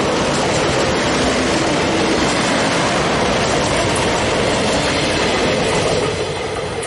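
Passenger train passing close by at speed: a loud, steady rumble and rattle of wheels on the rails.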